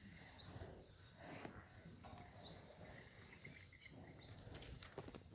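Near silence outdoors, with a faint short high chirp repeating about every two seconds over a steady faint high hiss.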